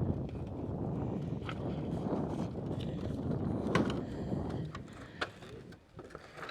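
Footsteps on a loose walkway of round bamboo poles, with sharp cracks and clicks from the bamboo, over a rough rumbling noise that dies away about four and a half seconds in.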